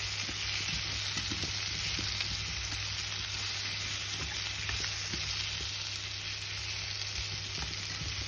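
Pumpkin slices and garlic sizzling steadily in hot oil in a non-stick frying pan as they stir-fry, with faint light clicks and scrapes of wooden chopsticks turning them.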